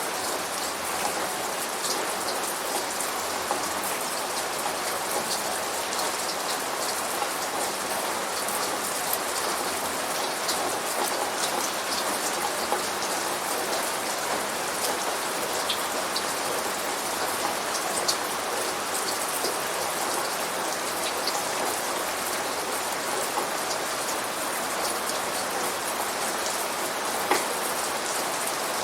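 Steady rain sound effect from the Rainforest Cafe: a continuous wash of rainfall with many small, sharp drop splats.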